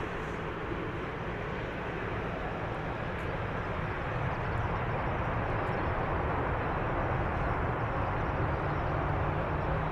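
Boeing 787-9 airliner's jet noise during landing: a steady rush and low rumble that grows slightly louder, with a steady low hum joining near the end.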